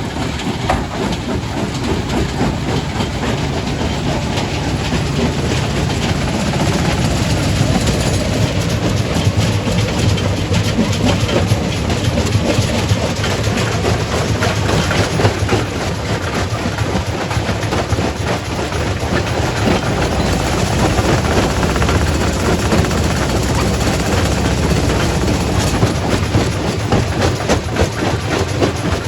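Quarry primary rock crusher running, with dense, continuous crunching and rattling of stone over a steady low machinery rumble.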